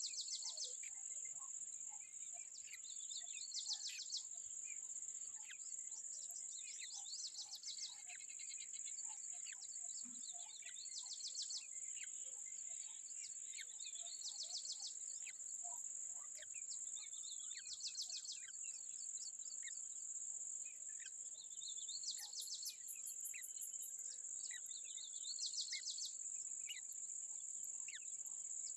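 Steady high-pitched insect drone, with a short, rapid pulsed trill that repeats about every three and a half seconds, and scattered faint bird chirps.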